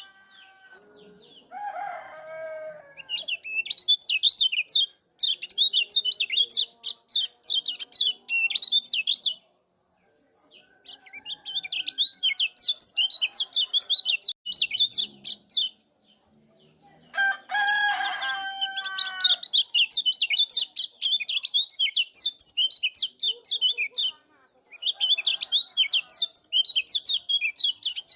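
Kecial kuning white-eye singing rapid, high chattering 'ciak' phrases several seconds long, with short pauses between them. Near the start and again past the middle, a lower-pitched call from another bird sounds beneath the song.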